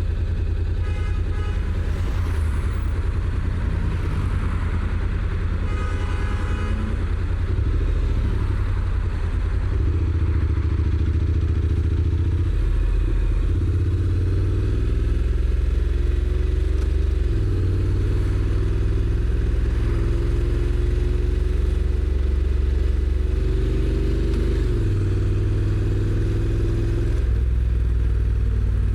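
Honda NC750X's 745 cc parallel-twin engine on its stock exhaust, running steadily under way, its low note shifting in steps several times as the engine speed changes.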